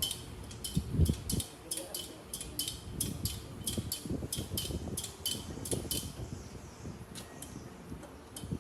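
Rapid light metallic clicks and clinks, two or three a second, over dull low knocks, from metal parts being worked; the clicking thins out after about six seconds.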